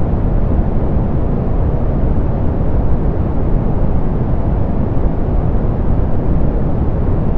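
Soft pink noise: an even, unchanging hiss, heaviest in the low end, with the highs rolled off.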